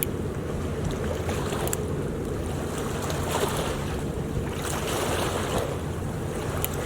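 Steady low rumbling wash of wind and surf, with a few faint clicks.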